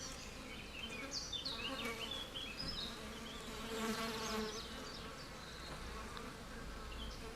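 Flies buzzing around, the hum swelling loudest about four seconds in, with short high chirps scattered through.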